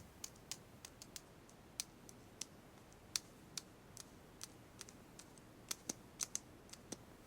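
Faint typing on a keyboard: light, irregular clicks, a few a second, in uneven clusters.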